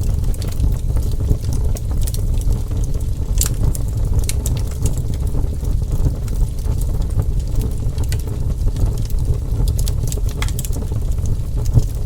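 Wood fire burning, with a steady low rumble under scattered sharp crackles and pops.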